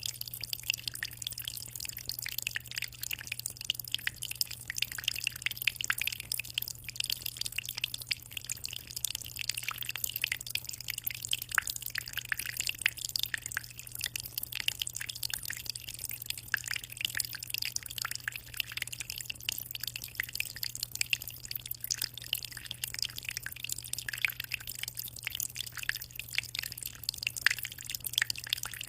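Water in a 60-litre aquarium trickling and splashing steadily as a close, continuous patter of small drips, over a steady low hum.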